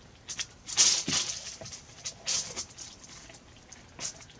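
Rope rustling and scraping under the hands as it is pressed and wound into place around a pot, in irregular short bursts, the strongest about a second in.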